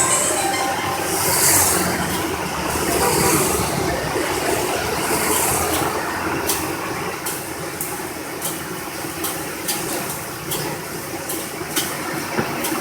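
A vehicle driving along a road in rain: steady engine and road noise with hissing swells in the first half. From about halfway comes a run of irregular sharp ticks.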